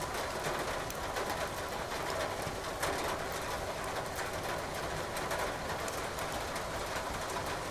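Wood fire crackling in a fireplace, scattered small pops over a steady hiss of falling rain.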